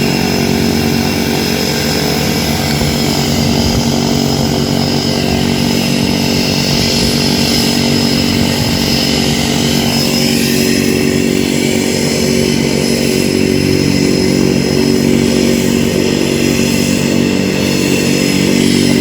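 Skydiving jump plane's engine running steadily close by, with a thin high whine over a deep, even engine drone.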